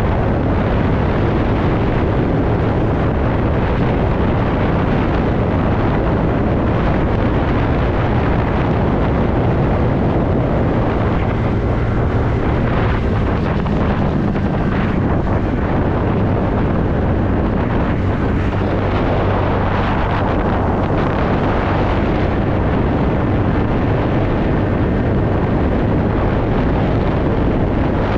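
Steady wind rush over the microphone on a moving TVS Ntorq scooter, with a low engine hum and road noise underneath.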